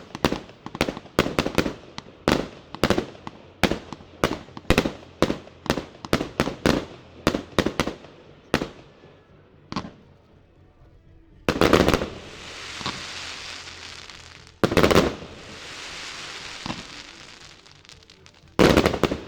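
A 150-shot firework cake of 1 to 1.2-inch tubes firing. For about the first eight seconds there is a fast run of shots, two or three a second. Then come three loud bursts a few seconds apart, each followed by a few seconds of crackling.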